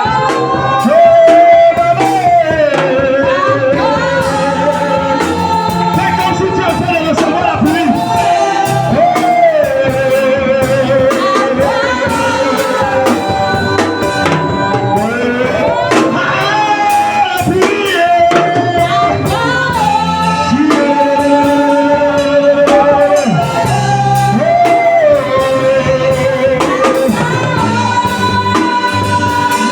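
Worship song: a voice sings a slow melody of long held notes over steady instrumental accompaniment.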